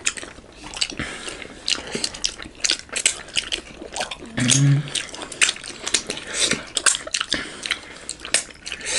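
Wet, smacking chewing and biting of two people eating momo dumplings, with many irregular lip smacks and slurps. A short hummed "mmm" comes about halfway through.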